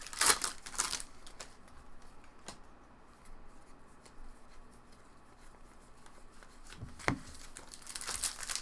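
Baseball trading cards being handled and flipped through: sharp rustles in the first second, then quieter handling, and a single click about seven seconds in.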